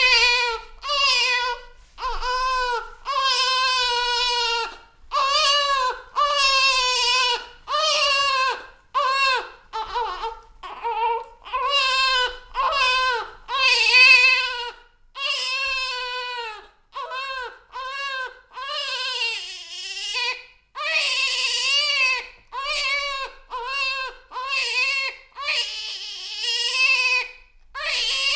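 A baby crying: a steady run of short wails, roughly one a second, each rising and falling in pitch, with short gaps between.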